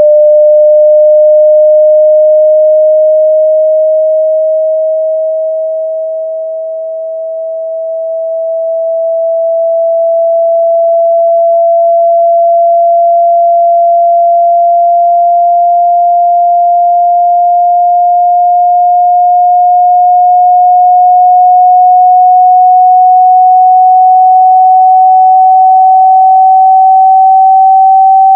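A loud, pure electronic sine tone, a speaker-cleaning tone for driving water out of a phone's speaker, gliding very slowly upward in pitch. It dips in loudness about seven seconds in, then holds steady.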